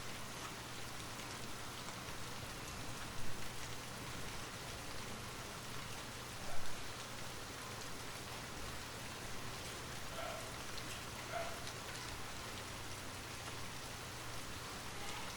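Light rain falling steadily, an even hiss of drops, with a few single louder drips landing about three seconds in and again about six and a half seconds in.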